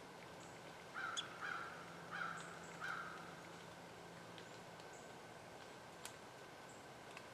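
A bird calling four times in quick succession, short harsh calls about a second in, with a few faint ticks around it.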